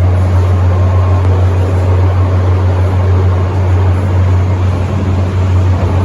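MTR Metro Cammell M-Train electric multiple unit running through an underground tunnel, heard from inside the car. A loud, steady low hum sits over a constant wash of rail and running noise.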